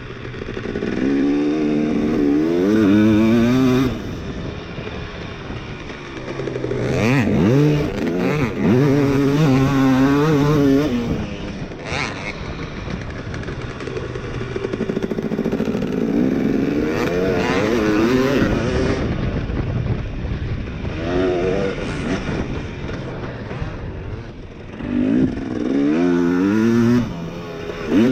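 Two-stroke dirt bike engine revving up and down repeatedly as it rides, swelling in several loud surges with short dips between.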